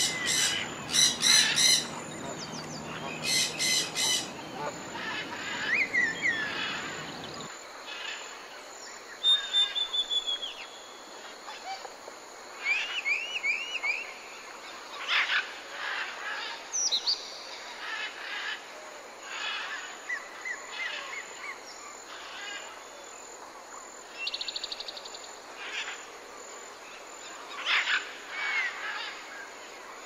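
Birds calling. Harsh honking calls, like waterfowl, come in the first four seconds. After an abrupt change in the background about seven seconds in, a mix of songbird chirps, short whistles, rising and falling notes and brief trills follows.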